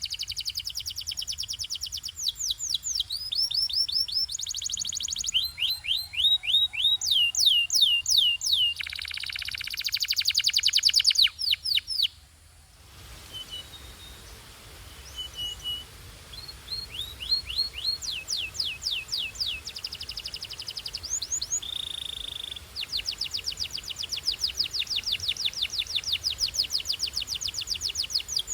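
Domestic canary singing in fast trills, each run made of one note repeated quickly before switching to a different note. About halfway through there is a short lull with only scattered soft notes, then the trills start again.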